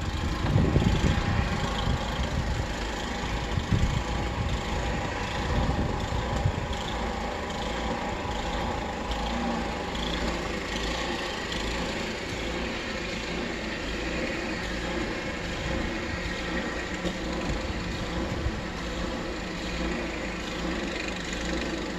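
An engine running steadily, with heavy low rumbling in the first few seconds.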